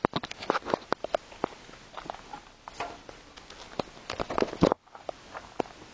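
Irregular mechanical clicks and knocks from the Tomos ATX moped being handled and readied before its cold start, with no engine running yet; the louder clatter stops abruptly near the end, leaving a few faint ticks.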